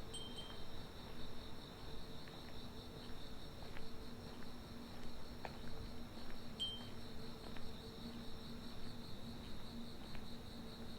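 Night insects, crickets among them, trilling in a steady, pulsing high chorus over a steady low hum. Two brief high pings, at the start and a little past halfway.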